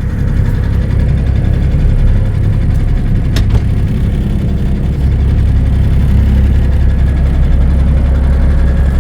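Cummins diesel engine of a Peterbilt 359 truck running with a steady low drone, a little louder from about halfway. A single sharp click about a third of the way in.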